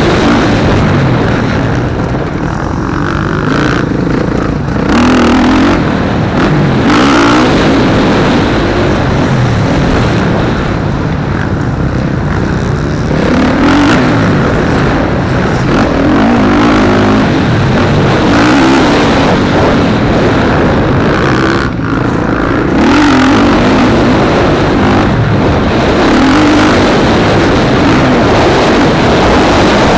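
Several motocross bikes racing, their engines revving up and down repeatedly through the gears as they lap the track.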